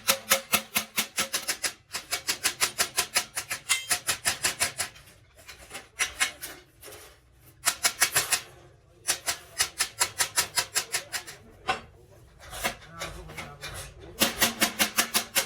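Rapid hammer taps on metal, about seven a second, in bursts of one to two seconds with short pauses between them.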